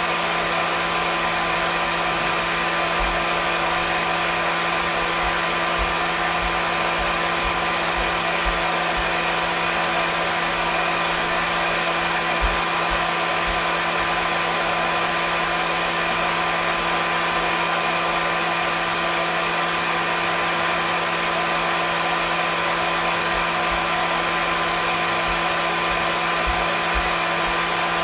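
Hair dryer running continuously at a steady speed, an unbroken whooshing rush of air with a steady motor hum and whine under it.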